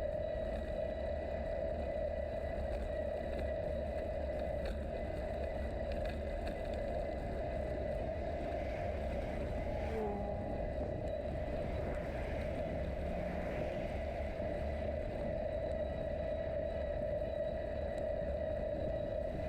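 Steady wind and riding noise from a moving bicycle, with a constant whine over a low rumble and a brief short glide about ten seconds in.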